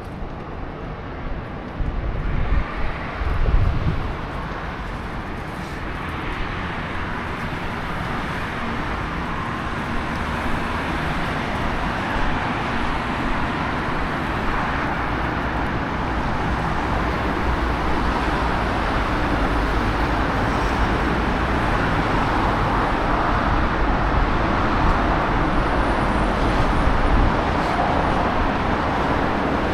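City street traffic on wet roads in the rain: a steady wash of vehicle and tyre noise that slowly grows louder, with low rumbles a few seconds in.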